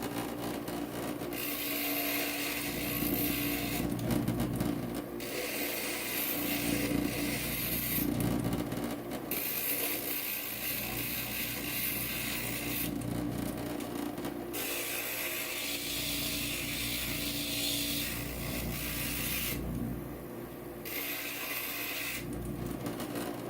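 Inland stained-glass grinder running with a steady motor hum, and a gritty grinding hiss each time a glass edge is pressed against the spinning diamond bit. There are about five passes of a few seconds each, with short pauses between them.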